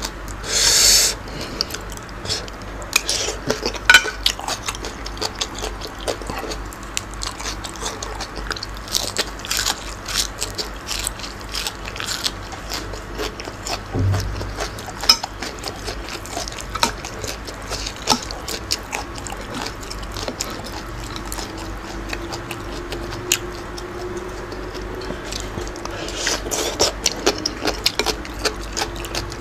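Close-up mouth sounds of a man eating raw shrimp with fresh herbs and vegetables: irregular crunching, wet clicks and smacks of chewing throughout. A brief louder rushing sound comes about a second in.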